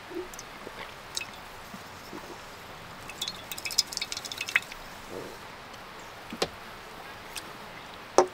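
Close-miked eating of pizza: scattered wet mouth clicks and crackly chewing, busiest in the middle, over a steady outdoor hiss.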